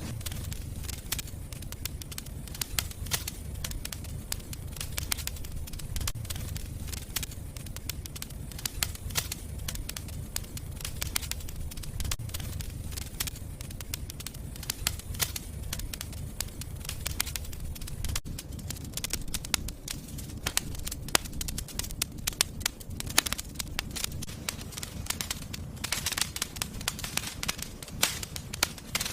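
Fireplace fire crackling, with frequent irregular pops and snaps over a steady low rumble of the flames.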